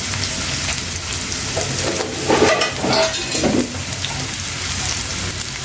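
Sliced onions frying in plenty of hot oil in an aluminium pan, a steady sizzle and bubbling. A few brief louder sounds come between about one and a half and three and a half seconds in.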